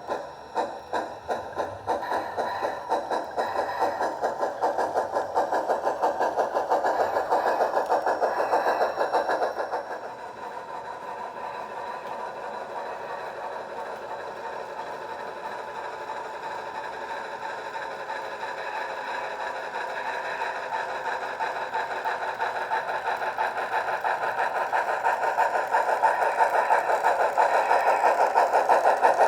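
Simulated steam locomotive chuffing from a Soundtraxx Steam2 sound decoder, played through the model locomotive's small speaker. The chuffs quicken over the first few seconds and drop sharply in loudness about ten seconds in, then grow louder again toward the end.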